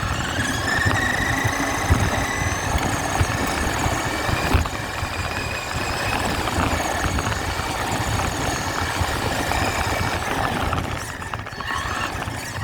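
RC truck's motor and drivetrain whining as it drives, the pitch drifting slowly up and down, with a few sharp knocks about two and four and a half seconds in.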